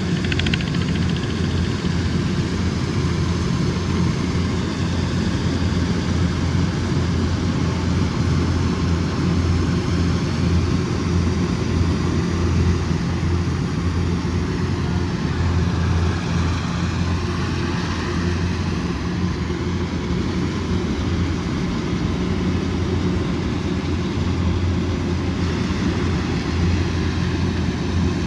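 Diesel engine of a rice combine harvester running steadily under load, with a constant low hum and the rattle of its machinery.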